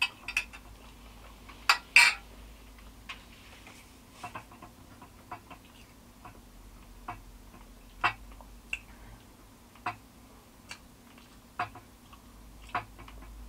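Close-miked eating: irregular chewing clicks and crunches, with the loudest double crunch about two seconds in. Possibly light clicks of cutlery or a plate among them.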